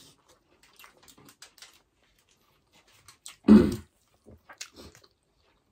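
Close-up eating sounds: soft chewing and lip smacks as food is eaten by hand, with one short loud burst about three and a half seconds in.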